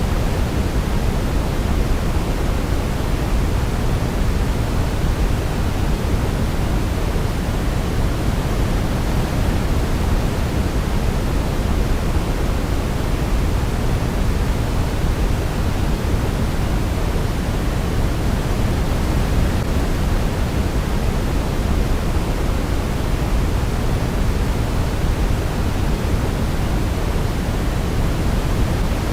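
Steady, unchanging synthetic noise for baby sleep, heavier in the low end than the highs, like pink noise; no pitched tones stand out.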